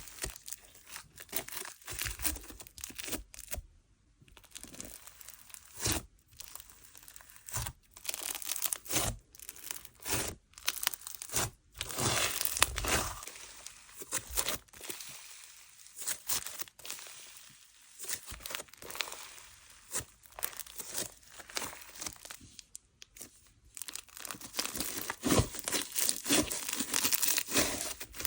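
Butter-fizz textured slime being stretched, pressed and pulled apart by hand, giving irregular sticky tearing and crinkly crackling sounds. The crackles get busier and louder in the last few seconds.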